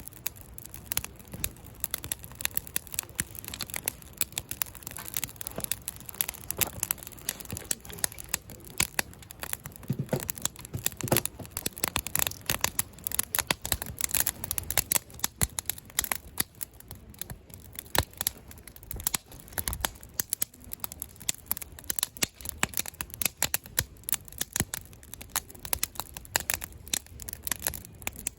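Wood campfire crackling, with frequent irregular sharp pops and snaps from the burning wood over a faint steady hiss.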